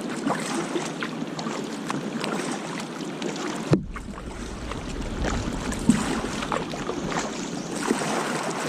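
Kayak being paddled: paddle strokes splashing in the water, with small clicks and a couple of sharp knocks, the first nearly four seconds in. A low rumble of wind on the microphone comes in after the first knock.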